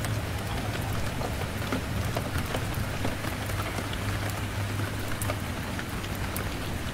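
Steady rain pattering on window glass, dotted with many small sharp crackles from a wood fire, over a low steady rumble.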